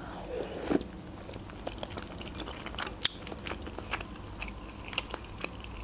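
Close-miked chewing of a mouthful of dushbara (small dumplings in broth): soft wet mouth clicks and smacks, with a few sharper clicks, the loudest about three seconds in.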